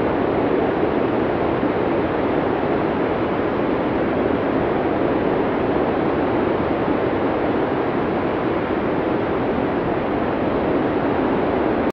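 Blizzard wind from a classic Cinesound arctic storm sound effect: a steady, even rush of wind noise, heaviest in the low-middle range, with no gusts or breaks.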